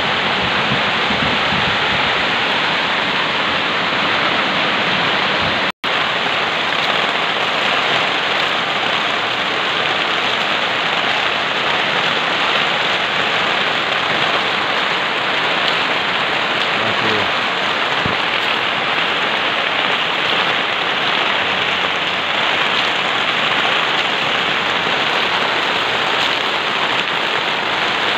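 Heavy rain pouring steadily in a downpour, with a split-second gap about six seconds in.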